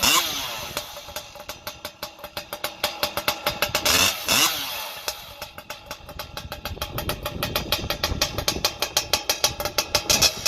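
Husqvarna 592 XP two-stroke chainsaw with a prototype expansion pipe, running cold at low speed in uneven, pulsing firing strokes. It is blipped briefly near the start and again about four seconds in, and the pulses quicken toward the end.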